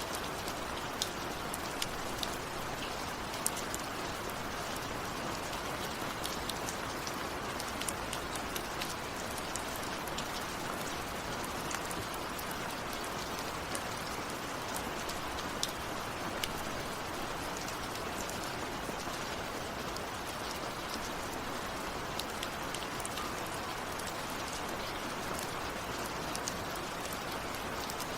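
Steady rain falling, an even hiss with frequent sharp ticks of individual drops striking a surface.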